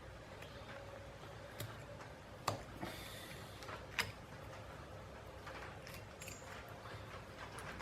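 Scalpel work on a deer's skull while the skin is peeled away around the antler bases: faint scraping with a few sharp clicks, the blade meeting bone.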